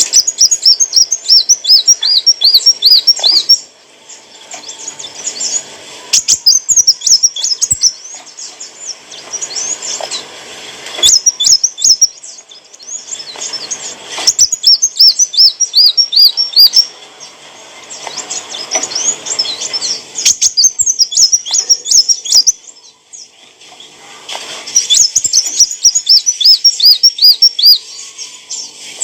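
Sunbird (kolibri wulung) singing: repeated phrases of rapid, high, thin chirping notes, each phrase a couple of seconds long with short pauses between.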